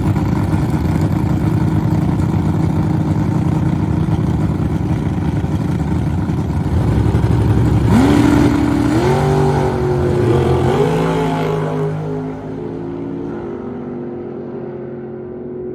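Drag-racing truck's engine running loud and steady, then about halfway through revving up in several stepped climbs in pitch during a pass down the strip, before easing off and quieting near the end.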